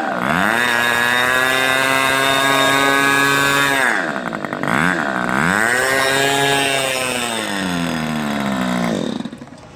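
Small two-stroke engine running at high revs on a test run. It dips and picks back up about halfway through, then slows and drops away near the end. The engine is running well.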